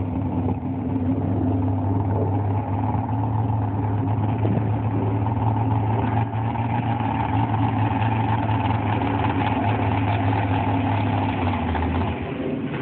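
Drag car's engine idling steadily with a deep, even hum, easing off a second or so before the end.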